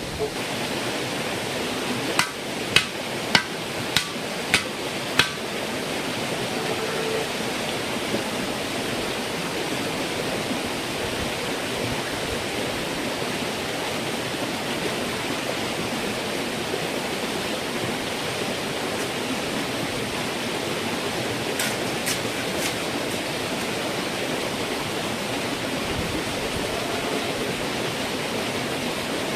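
Steady rushing noise like running water. A little over two seconds in comes a quick series of six sharp knocks, about two a second, and about twenty seconds later three fainter knocks.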